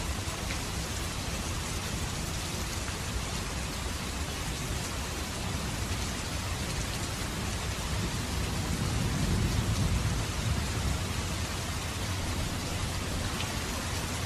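Steady rain falling, an even hiss. About two-thirds of the way in, a low rumble of distant thunder swells and fades.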